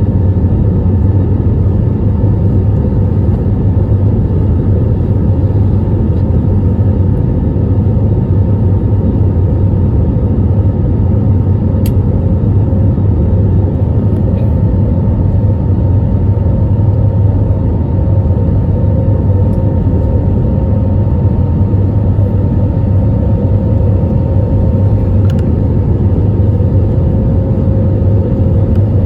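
Cabin noise inside an Airbus A320neo during the climb after takeoff: a steady, loud engine and airflow rumble with a constant hum from the engines.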